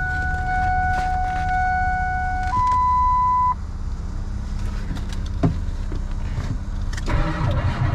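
Starter motor of a cold-soaked Ford 7.3 diesel truck: a steady electric whine that steps up to a higher tone about 2.5 s in and cuts off about a second later. A low rumble and a few knocks remain. It is the sound of a starter that is failing and cannot turn the engine over.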